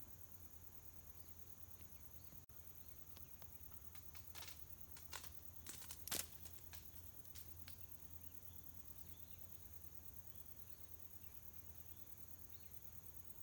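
Quiet outdoor background with a steady high hiss, broken about halfway through by a short run of sharp rustles or clicks, with faint chirps in the second half.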